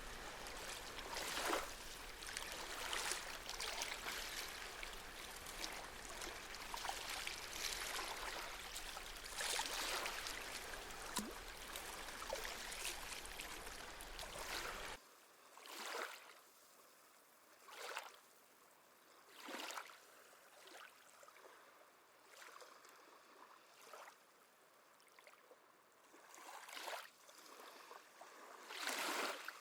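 Small sea waves lapping and washing at the shore: a dense, steady wash of water for the first half, then an abrupt drop about halfway through to quieter, separate small splashes every couple of seconds.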